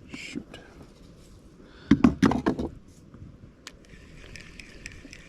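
A quick cluster of several hard knocks about two seconds in, followed by faint, steady, light ticking.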